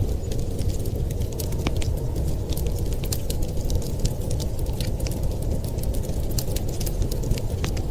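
Wood fire crackling in a fireplace: many irregular sharp snaps and pops, over a steady low rumble of storm wind.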